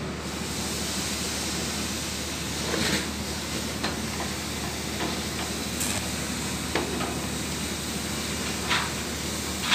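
Steady hissing noise with a low hum, typical of factory machinery running, with a few short knocks and clanks scattered through it.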